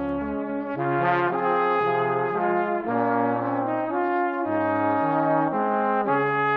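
Music: brass instruments such as trombone and trumpet playing a melody in held chords that change every half second to a second or so.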